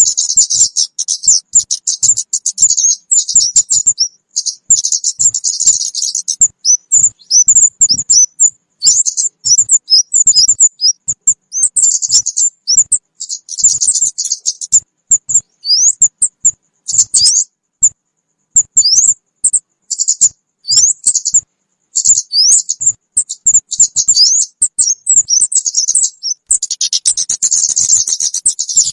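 Lure recording of kemade bird calls: rapid, high chirps and short sweeping notes in dense runs, with a thicker burst of chatter near the end.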